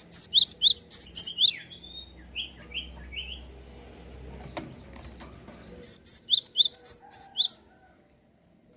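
A gelatik songbird singing two bursts of rapid, high, piercing chirps, each note dropping sharply in pitch. The first burst trails off into a few lower chirps, and the second starts about six seconds in.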